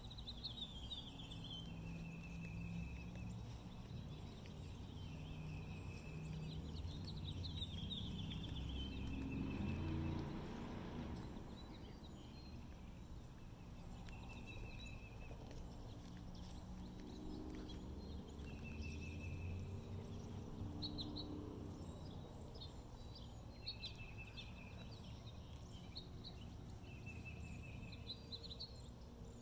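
A songbird singing the same short phrase over and over every few seconds, a falling run of notes followed by a brief trill, over a low outdoor rumble that swells for a moment about ten seconds in.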